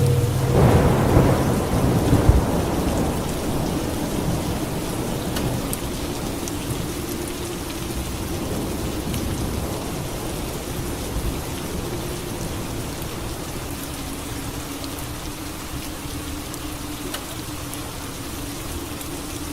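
Steady rain with a loud thunderclap about half a second in; its rumble rolls on and fades over the next several seconds.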